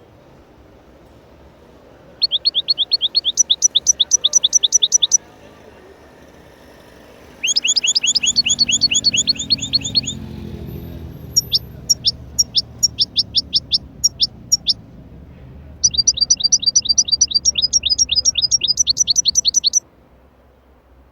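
A small songbird singing in fast trills of sharp, falling chirps, about seven a second, in four bouts of a few seconds each, the third more broken up than the others.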